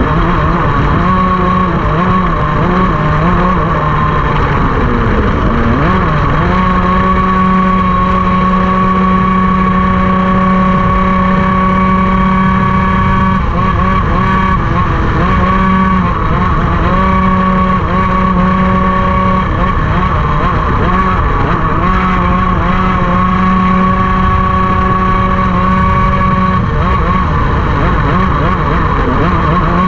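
Racing kart engine running at high revs on track, holding a steady high pitch along the straights and briefly dropping and picking back up when lifting for corners, most deeply about five seconds in and more briefly three more times.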